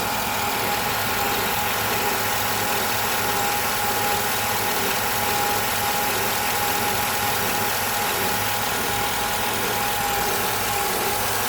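Chevy 5.3-liter Vortec V8 idling steadily at operating temperature, with a steady low-pitched squeaking, almost a buzzing, running through it. The owner worries about it; he doesn't think it is a pulley and suspects it could be something electrical.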